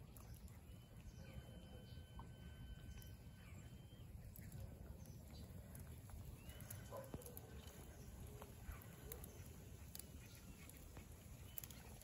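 Faint bird calls: scattered short chirps over a low wind rumble, with a thin held whistling note for a few seconds near the start.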